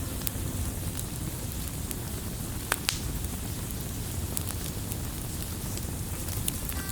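Wood fire burning, a steady low rumble of flames with scattered small crackles and two sharper pops about three seconds in.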